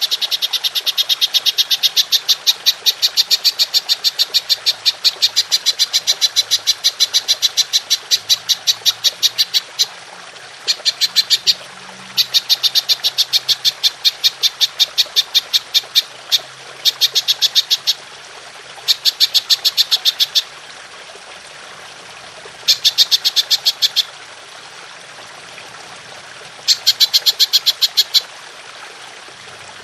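Belalang emas (golden grasshopper) calling in fast, even trains of shrill pulses, about five or six a second. One long run of about ten seconds is followed by shorter bursts of one to three seconds with pauses between them, all over a steady faint hiss.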